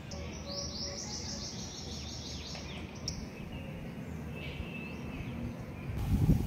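A bird singing a fast run of repeated high, downward-sweeping notes for about three seconds, then a fainter call, over low outdoor background noise. Just before the end, a much louder low noise starts.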